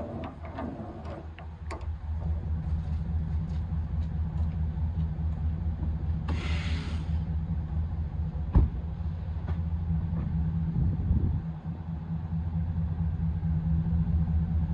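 Pickup truck engine running with a steady low hum that sets in about two seconds in. A brief hiss comes near the middle, and a single sharp knock follows soon after.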